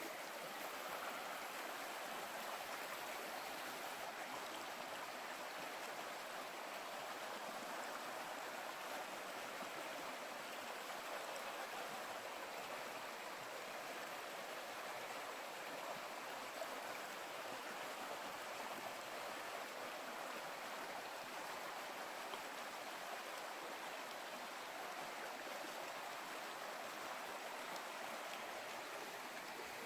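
Steady rushing of a flowing stream, with no pauses or sharp sounds.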